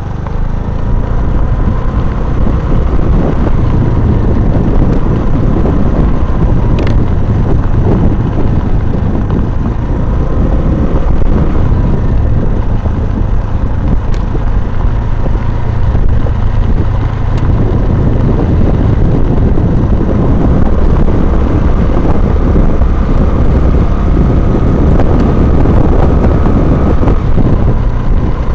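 Honda Navi's small air-cooled single-cylinder engine running steadily under way on a stone and gravel road, with heavy wind rumble on the microphone and a faint steady whine.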